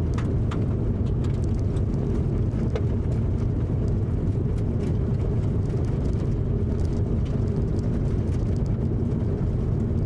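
Steady rumble of a car driving, road and engine noise heard from inside the cabin, with a few faint scattered ticks.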